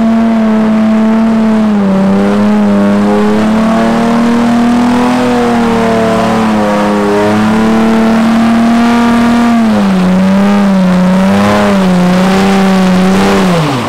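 Dodge Charger Hellcat's supercharged V8 held at high, steady revs while the car spins its rear tyres in a smoky donut. The pitch wavers and dips a little several times, then falls away sharply as the throttle is released near the end.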